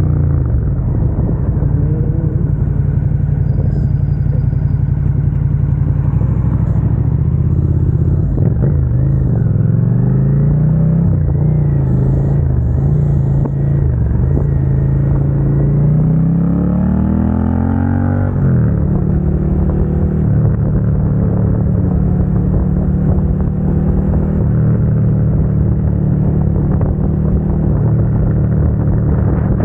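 Suzuki SV650 V-twin engine through an aftermarket Dominator GP exhaust, heard while riding. The engine note falls at first and rises and falls through the middle. Near the middle it climbs steeply in revs, then drops abruptly as it shifts up, and settles to a steady cruise.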